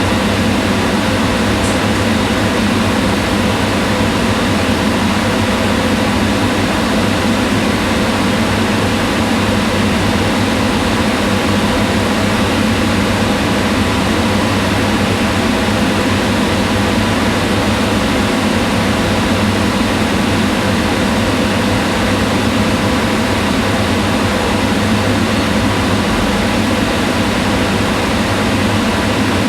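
Kitchen range hood fan running steadily: an even whooshing hum of moving air with a faint motor drone underneath.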